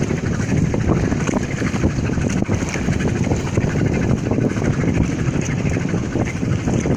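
Steady low rumble of wind buffeting the microphone, mixed with the noise of speedboats on the water.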